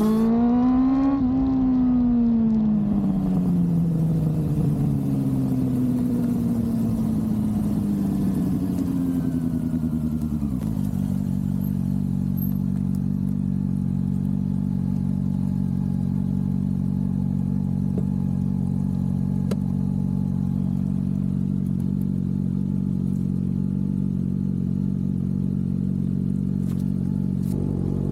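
Honda CB400SF's inline-four engine pulls briefly, then its pitch falls steadily as it slows. About ten seconds in it settles into a steady idle.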